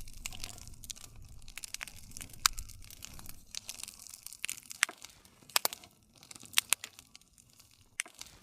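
Wood fire crackling: irregular sharp pops and snaps, a handful of them loud, over a low rumble of burning.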